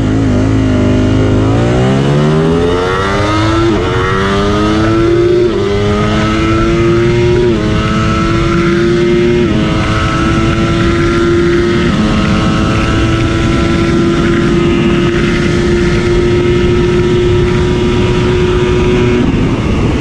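Sport motorcycle engine accelerating hard through the gears: the pitch climbs, drops at each of five quick upshifts about two seconds apart, then holds a steady high note at speed.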